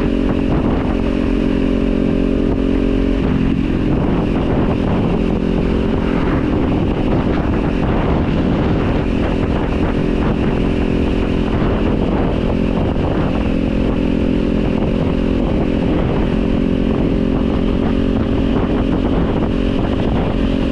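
Kawasaki Z400 parallel-twin motorcycle engine running, heard from on the bike; the engine note holds very steady at first and becomes more uneven about three seconds in.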